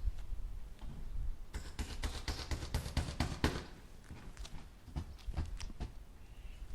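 Hammer tapping nails into wood: a quick run of light taps, about six a second, then a few slower taps.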